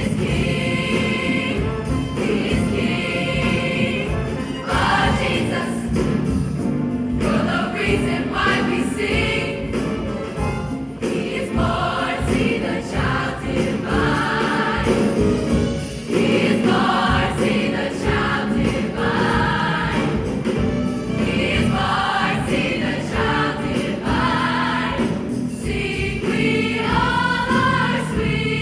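School choir singing a Christmas choral piece with accompaniment.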